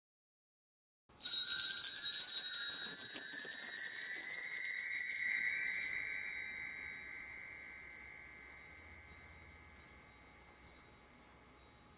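Sound effect of a bright, high chime shimmer rising in pitch. It starts about a second in, holds for about five seconds, then fades away with a few scattered tinkles.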